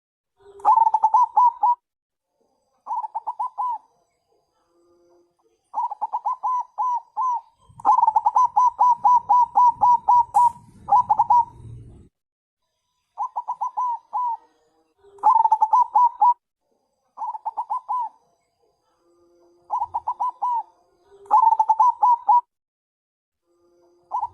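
Zebra dove (perkutut bangkok) cooing: repeated phrases of rapid, stuttering coos, each about a second long with short pauses between, some loud and some fainter. A low rumble runs under the phrases a third of the way through.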